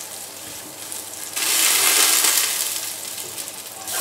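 Chopped garlic with cumin and fennel seeds sizzling in hot coconut oil in a stainless-steel sauté pan as they are stirred. The sizzle jumps suddenly louder about a second and a half in, then eases off near the end.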